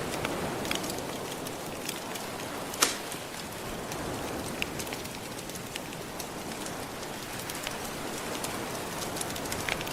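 Crackling wood fire over a steady wash of gentle ocean surf: scattered small pops and snaps through an even hiss, with one louder pop about three seconds in.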